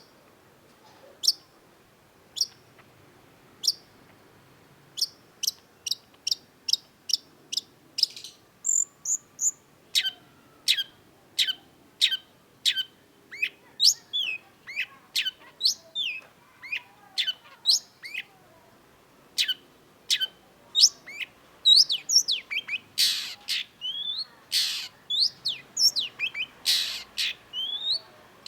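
Long-tailed shrike (cendet) singing: sharp, high, downward-slurred notes. They come about one a second at first, then in quicker, busier series. A few harsher, noisier notes come in the last third.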